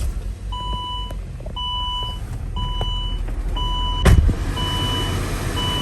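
A 2008 Saab's engine, just started, running at idle with a low steady hum, while the car's electronic warning chime beeps about once a second, six times. A single loud thump comes about four seconds in.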